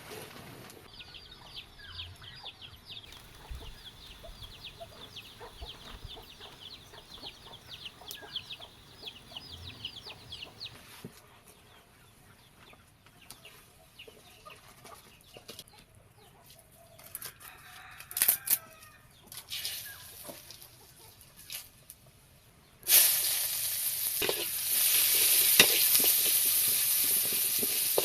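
Chickens clucking with rapid high chirping in the background. About five seconds before the end, loud sizzling starts suddenly, as food goes into a hot pan, and it continues.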